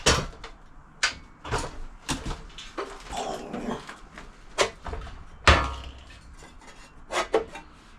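Knocks and clunks as a saw is handled and set onto a steel welding fixture table: about seven separate knocks, the loudest about five and a half seconds in, with a short scraping rustle near the middle.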